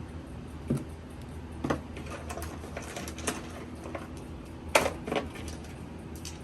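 A few light clicks and knocks, like small objects being handled and set down, over a steady low hum; the loudest knock comes about three-quarters of the way through.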